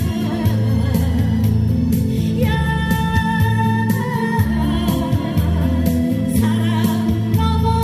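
A singer holding long sung notes over an instrumental backing with a steady low bass, part of a live pop song.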